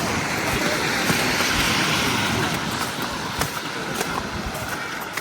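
City street traffic: a motor vehicle passing, its engine and tyre noise swelling about two seconds in and then fading, with a few sharp clicks in the second half.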